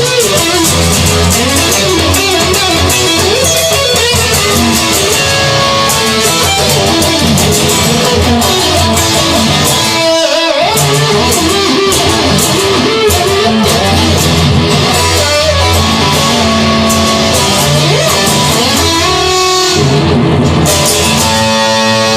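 Instrumental break in a rock song: electric guitar playing bending lead lines over bass and a steady drum beat, with a brief drop-out about ten seconds in.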